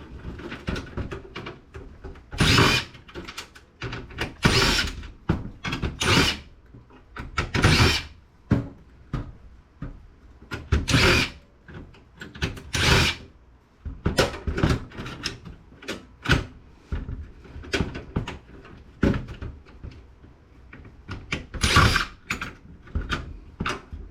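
Cordless drill-driver run in repeated short bursts, a second or two apart, backing out screws from a desktop computer.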